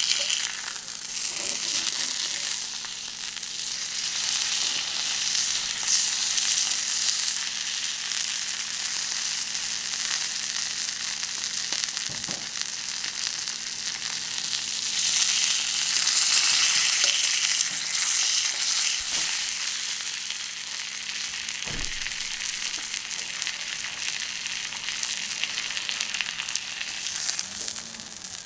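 Sirloin steak sizzling and spitting on a hot iron griddle, a steady crackling frying sound that swells louder around the middle and eases off near the end.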